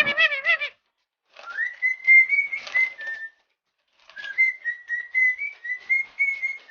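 Whistling: a short wavering note at the start, then two long whistled phrases that stay near one pitch with small steps up and down, with a pause of about a second between them.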